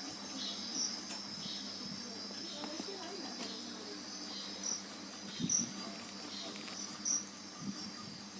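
Insects, cricket-like, chirring steadily in a high band, with a couple of soft knocks past the middle.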